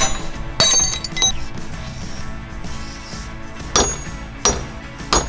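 Tools striking metal parts: several sharp, ringing metallic clinks and knocks at irregular intervals, with a quieter gap in the middle, as work goes on refitting a truck's drive shaft.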